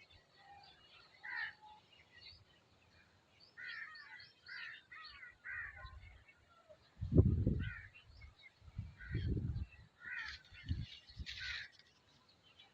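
Birds calling over and over in short, scratchy calls, with a few louder low rumbles about halfway through and later, like wind buffeting the microphone.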